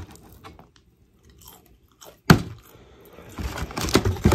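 A person chewing and biting into crispy fried chicken: one sharp crunch about two seconds in, then a run of smaller crunches near the end.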